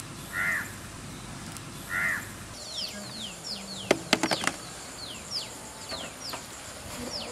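Birds calling: two caw-like calls, then a run of quick falling chirps, about two or three a second, from a second bird. A short cluster of sharp clicks comes about four seconds in.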